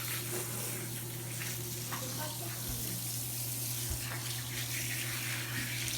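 Tap water running steadily as a cat is rinsed during a bath: an even hiss of flowing water over a constant low hum.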